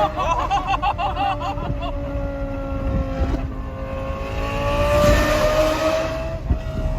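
Lamborghini Gallardo Superleggera's naturally aspirated 5.0 V10 with aftermarket exhaust, heard from inside the car at a steady cruise. The engine note sags slightly, then rises and gets louder about five seconds in as the throttle comes on again.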